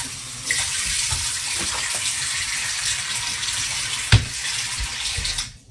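Water tap running steadily for about five seconds, then shut off abruptly, with a single sharp knock about four seconds in.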